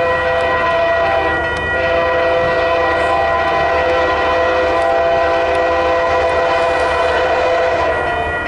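Locomotive's Nathan K3LA air horn blowing a long, loud chord as the train approaches the crossing, with a short break about a second and a half in and again near the end.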